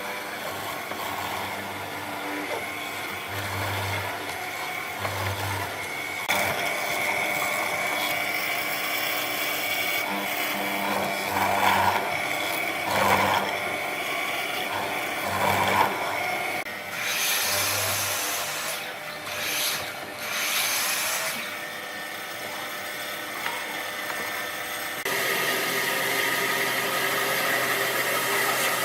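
Woodworking tools working wood, in a run of short segments that change abruptly every few seconds.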